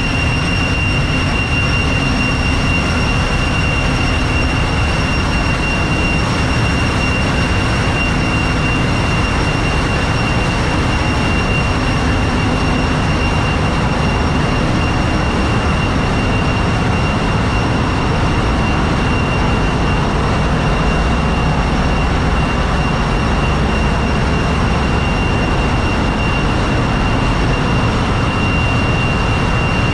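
Ship's engine room machinery running: a loud, steady, unbroken din with a deep rumble and a constant high-pitched whine over it.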